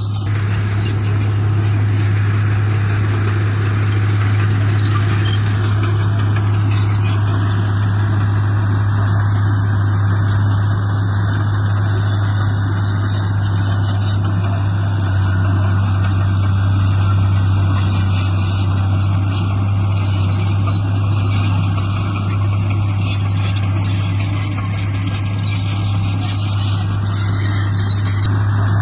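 Heavy diesel engine of earthmoving machinery running steadily under load, with a strong constant low hum and no change in pitch.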